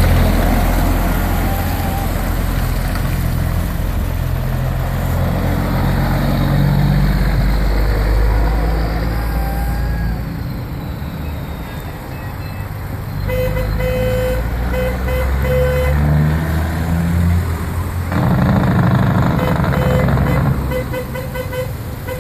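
Kenworth Coca-Cola truck's diesel engine running with a low, steady rumble. A run of short, evenly spaced beeps sounds a little past halfway, and again near the end.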